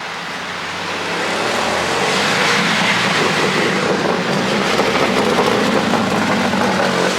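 Car engine running with a steady low hum under a rush of road and wind noise, swelling over the first couple of seconds and then holding steady.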